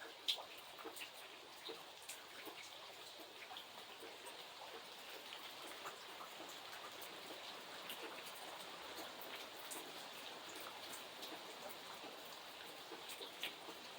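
Rain falling steadily, a soft hiss with many individual drops ticking on a surface, one sharper drop hit just after the start.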